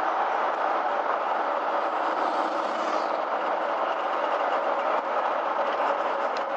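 Small motorhome driving along at steady speed, heard from inside the cab: a constant engine and road-noise drone.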